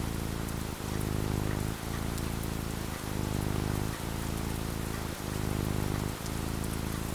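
Steady rain falling, with a low rumble underneath that dips briefly about once a second.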